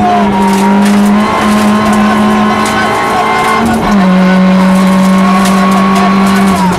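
Rally car's engine running hard at high revs, heard from inside the cabin. Its note holds steady, steps down slightly about four seconds in, then holds again.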